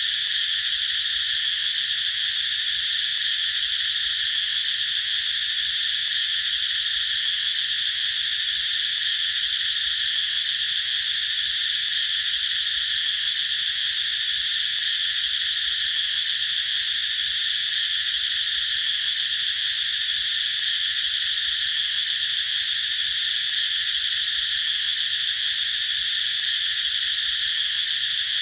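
Cicadas singing together in a steady, unbroken high-pitched drone.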